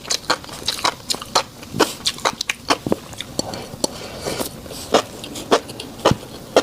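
Close-miked mouth sounds of a person chewing fish roe: an irregular string of sharp clicks and pops, about two or three a second.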